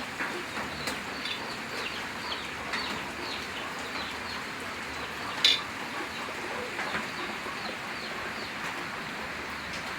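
Birds chirping and calling, many short high chirps over a steady hiss, with one brief, louder sharp sound about five and a half seconds in.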